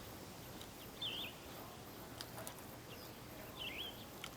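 Faint outdoor background with a small bird chirping twice, each a short up-and-down chirp, and a few faint clicks.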